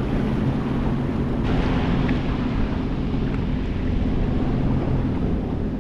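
A Sea-Doo GTX 230 jet ski engine running steadily at low speed, with wind rushing over the microphone and water washing around the hull.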